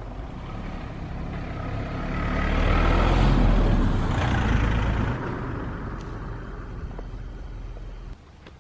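A road vehicle passing close by: the noise swells to a peak about three to four seconds in, then fades away, and cuts off suddenly near the end.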